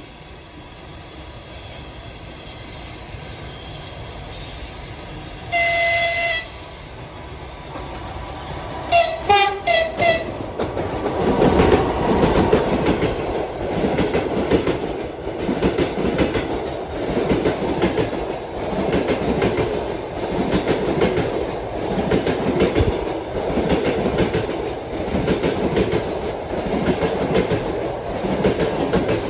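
EP2K electric locomotive approaching and sounding its horn: one held blast about six seconds in, then a quick run of short toots a few seconds later, a greeting from the crew. The locomotive and its passenger coaches then pass close by, the wheels clattering over the rail joints in a steady repeating rhythm.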